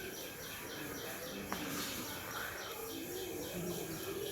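A bird calling in a rapid, even series of short high chirps, about four a second.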